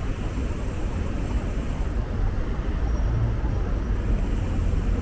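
Steady low rumble of city street and traffic noise, heaviest in the bass.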